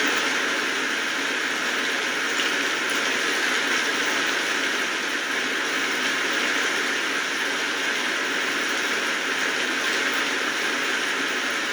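Steady rainfall: an even hiss of many drops, with no breaks or rhythm.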